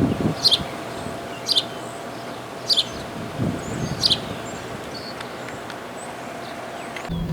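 A songbird calling outdoors, one short high note repeated about once a second, over light wind on the microphone. At the very end the sound cuts to a steady low vehicle hum.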